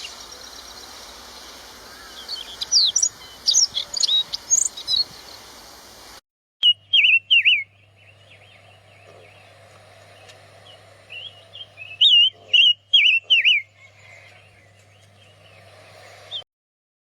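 Chestnut-vented nuthatch calling: clusters of short, sharp, high-pitched notes. After a break about six seconds in come further quick runs of notes a little lower in pitch.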